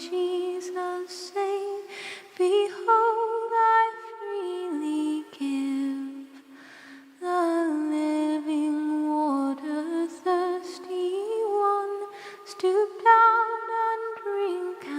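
A single unaccompanied voice singing a slow hymn melody a cappella, moving in steps between long held notes, with a softer low note held about halfway through.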